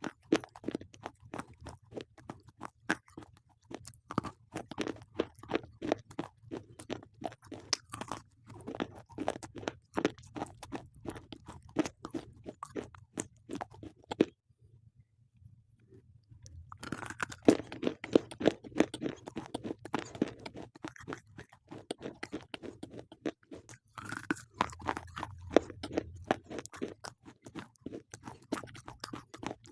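Slate pencils being bitten and chewed close up: a rapid run of crisp crunches, with a pause of about two seconds near the middle.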